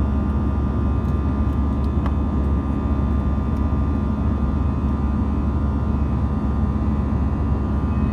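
Airbus A321 jet engines and airflow heard from inside the passenger cabin after take-off: a steady low rumble with a faint, even whine on top.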